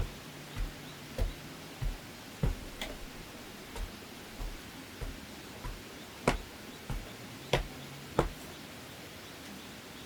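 Hand-tool strikes on bamboo: sharp knocks coming steadily, roughly one every half second or so, some much louder than others.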